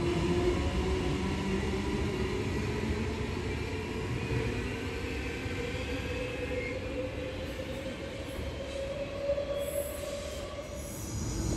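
Passenger train running on the rails with a steady rumble, over which a thin whine slowly rises in pitch and fades near the end.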